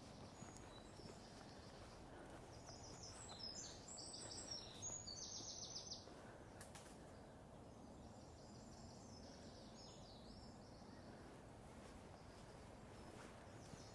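Songbirds singing outdoors: a few bright, high phrases about three to six seconds in and again more faintly a little later, over a faint, steady low background rumble.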